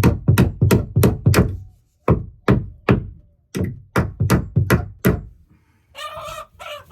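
A hammer driving a nail into a wooden roost perch: about fifteen sharp blows, roughly three a second in three runs with short pauses, stopping about five seconds in. A chicken calls near the end.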